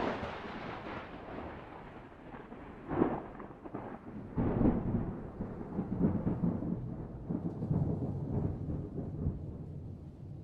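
Thunder: a sudden crack followed by a long rolling rumble, with further loud peaks about three and four and a half seconds in.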